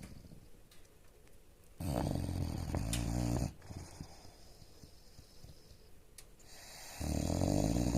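English bulldog snoring in its sleep: two loud snores, the first about two seconds in and the second near the end, each about a second and a half long, with quiet breathing between.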